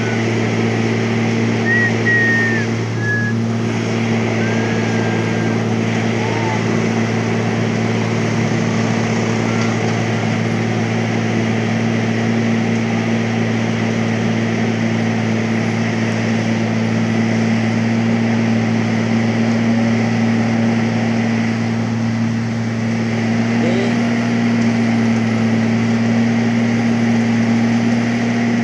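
A machine engine running steadily at a constant pitch, rising slightly in pitch about two-thirds of the way through. A few short, high chirps sound over it in the first few seconds.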